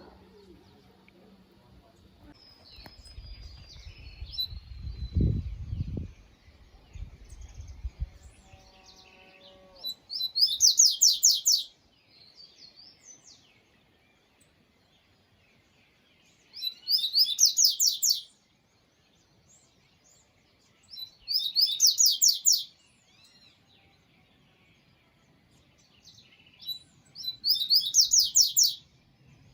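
A songbird singing four short, loud, rapid trilled phrases a few seconds apart, high in pitch. A low rumble comes before the first phrase.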